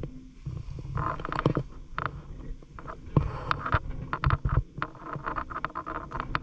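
Water sloshing and splashing irregularly in a shallow ditch as a fishing net is worked through it, with scattered knocks.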